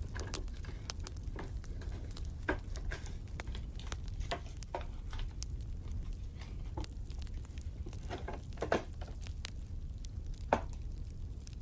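Wood fire crackling, with a steady low rumble and scattered sharp pops and snaps, a few louder than the rest.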